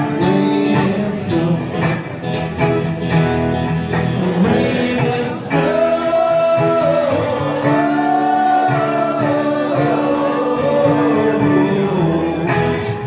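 A song with guitar accompaniment and a voice singing, holding long wavering notes in the middle of the passage.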